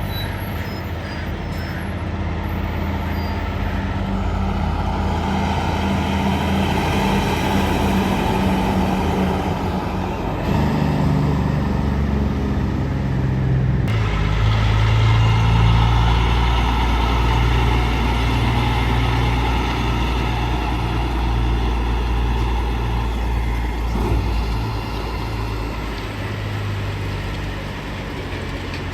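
Diesel semi trucks running past on the road: steady engine drone with tyre and road noise. The engine note shifts pitch a couple of times around the middle as one truck gives way to the next.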